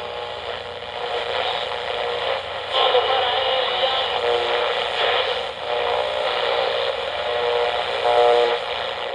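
Sound effect of a railroad train running, a steady rushing noise, heard through the narrow, dull sound of an old radio transcription.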